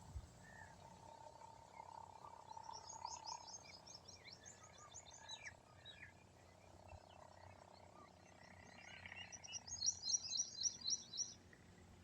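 Small birds chirping outdoors in two runs of quick, high chirps: one a few seconds in and a louder one near the end, over faint steady background noise.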